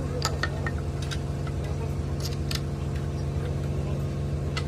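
An engine running steadily at an even speed, with several sharp clicks or taps over it.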